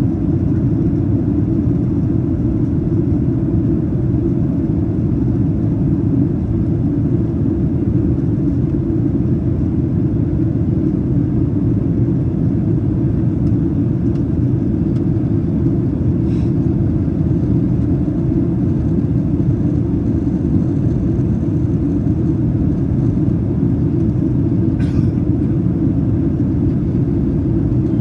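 Steady low rush of airflow and engine noise inside the cabin of a Boeing 737-800 in descent, with two faint brief clicks about sixteen and twenty-five seconds in.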